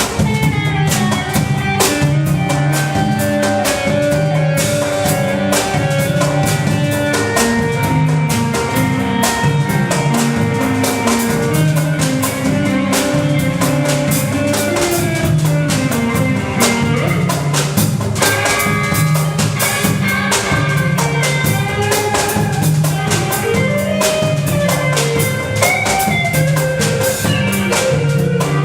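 Band music with a drum kit, bass line and guitar playing an instrumental passage with a steady beat.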